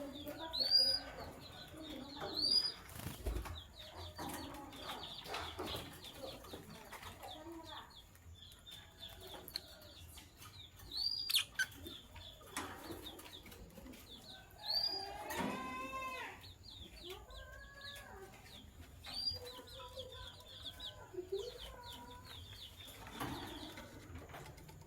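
Opaline lovebirds chirping and chattering, with short high arched calls recurring every second or two and a longer sweeping call about halfway through. A brief knock sounds about three seconds in.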